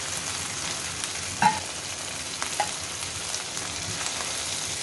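Brain masala sizzling in oil in a nonstick wok while a metal spatula stirs and scoops it. A sharp scrape or clink about one and a half seconds in is the loudest sound, followed by a couple of lighter knocks.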